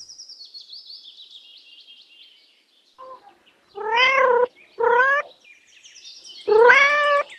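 A domestic cat meowing three times: two short meows about four and five seconds in, then a longer one near the end.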